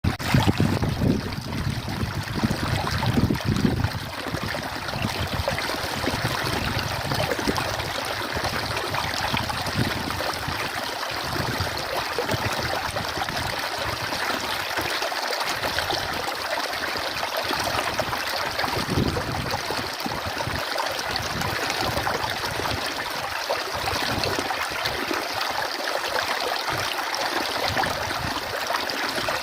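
A stream of running water, a steady even rush and trickle. Irregular low rumbles sit under it in the first few seconds.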